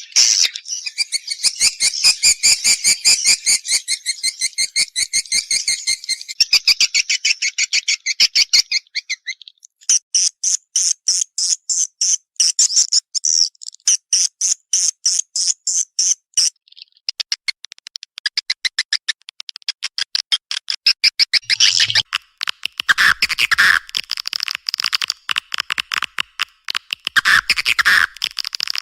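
Edible-nest swiftlet calls from a swiftlet-lure recording: a fast, even series of short, high chirps, about four or five a second, with short breaks and changes of pattern along the way.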